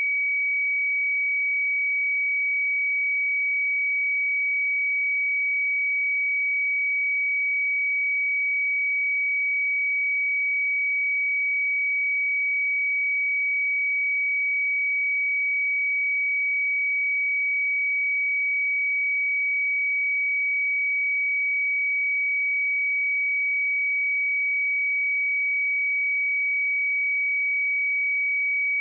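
A pure 2268 Hz sine-wave test tone, held steady at one pitch and level throughout.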